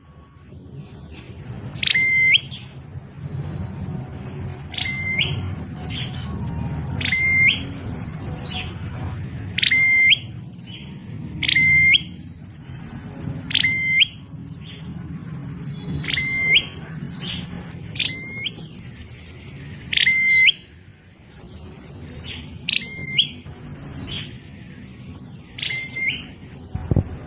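Prenjak klawu, a prinia, calling: a loud, sharp note repeated about every two seconds, with quick high twittering between, over a steady low rumble.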